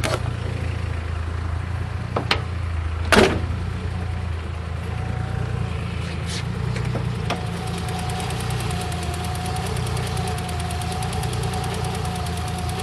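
Nissan VG30 3.0-litre V6 idling steadily, with a few sharp knocks in the first seconds, the loudest about three seconds in. A faint steady whine joins the idle about seven seconds in.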